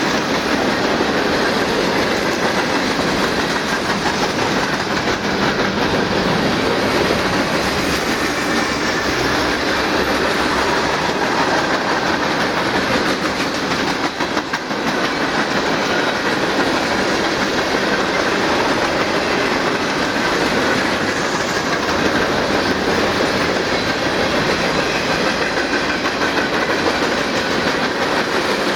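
Freight cars of a long manifest train rolling past close by, the wheels clattering steadily over the rails.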